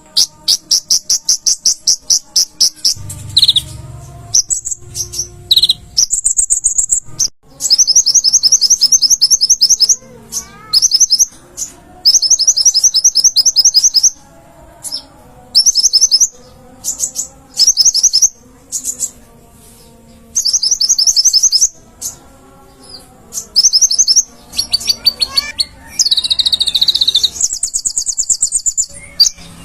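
Konin (sunbird) singing: bursts of very fast, high-pitched trilled notes, each lasting a second or two, repeated again and again with short pauses between.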